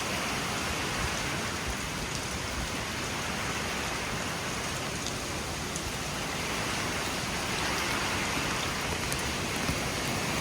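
Steady hiss of rain falling in stormy wind, growing slightly louder in the second half.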